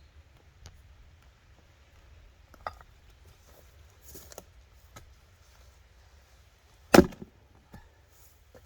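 Firewood being split with an axe: one loud, sharp chop into a log about seven seconds in, with a few lighter wooden knocks before it.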